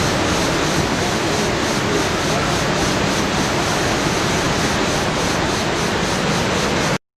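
Waterfall: a steady, dense rush of falling water that cuts off suddenly near the end.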